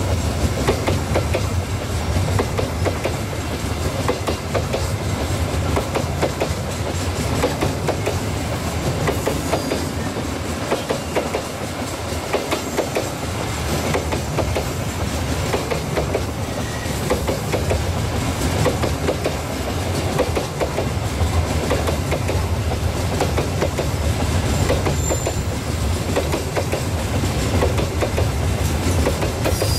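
Coal wagons of a very long freight train rolling past, their steel wheels clacking steadily over the rail joints above a continuous low rumble.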